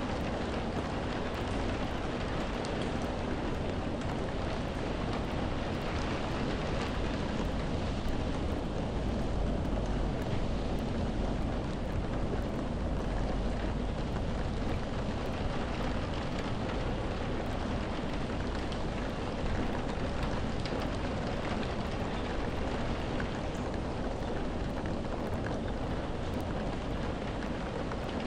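Steady, unbroken rainfall, with a deep low rumble underneath that swells a little around the middle.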